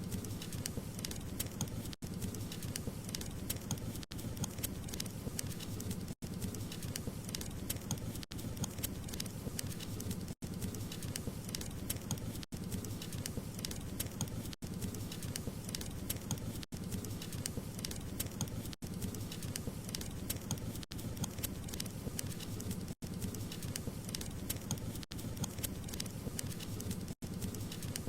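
Wood fire crackling and popping steadily over a low rumble of burning, with a brief gap in the sound about every two seconds.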